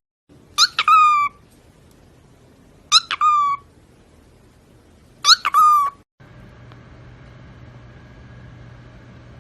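A pet animal calling three times, about two and a half seconds apart: each call is a short, high cry that jumps up at the start, holds and sags slightly at the end. After the third call the sound cuts to a steady low hum.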